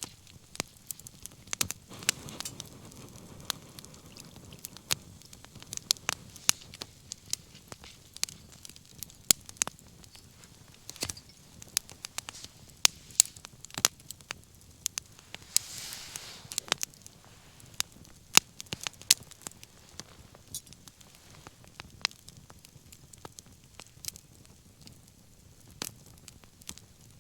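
Wood bonfire crackling, with irregular sharp pops and snaps over a soft steady rush of flame, and a brief hiss just past the middle.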